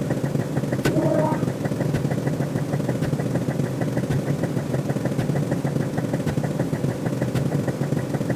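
Synthetic sci-fi sound effect: a steady low rumbling drone with a fast, even ticking above it, and a short tonal blip about a second in.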